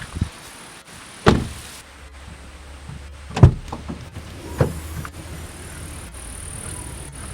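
Three sharp thumps, about a second in, near the middle (the loudest) and a little later, over a low steady hum.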